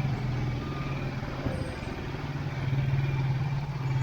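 A motor vehicle's engine running close by, a steady low hum that grows louder about two and a half seconds in.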